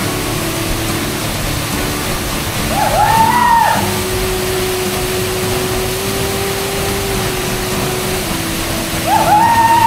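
Steady rush of a waterfall with background music laid over it: held notes that shift pitch every few seconds, and two short rising-and-falling melodic phrases, one about three seconds in and one near the end.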